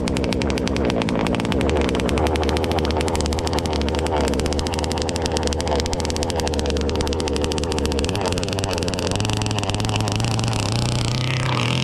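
Gas RC boat's Zenoah two-stroke engine running hard at speed on the water, a fast buzzing drone. The pitch steps up about three quarters of the way through and bends down and back up near the end.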